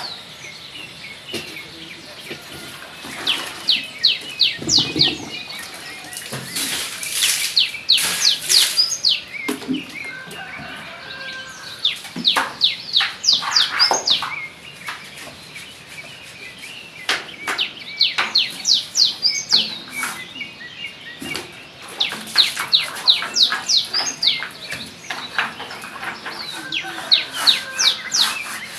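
A stiff brush scrubbing a floor with soapy water in bursts of quick strokes, among high chirps from birds.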